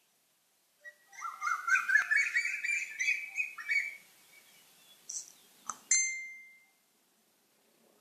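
A songbird's rapid run of chirps climbing in pitch for about three seconds. Then a sharp click and a single ringing tone that fades within about a second.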